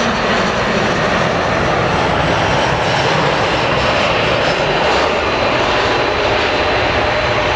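Jet engines of an Airbus A319-115 running loud and steady close by, a dense, even jet roar with no breaks.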